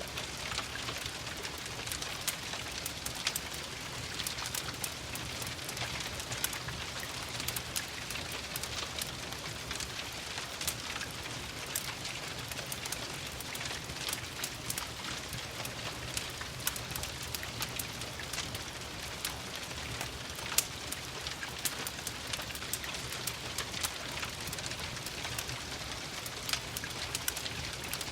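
Steady rain together with a crackling wood fire: an even hiss dotted with many short, sharp pops and clicks.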